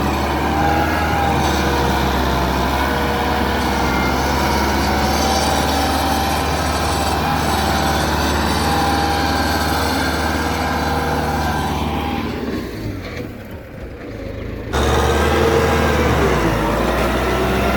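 Tractor engine running steadily under load while working through deep rice-field mud, with wavering higher tones over a low drone. About twelve seconds in the sound fades, then comes back abruptly about three seconds later.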